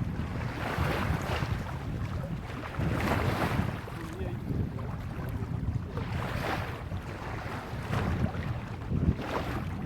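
Water rushing and splashing along the hull of a small sailboat under sail, swelling in surges every few seconds, with wind buffeting the microphone.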